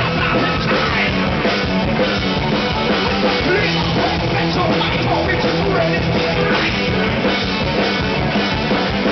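A live rock band playing loud with a drum kit, steady and unbroken.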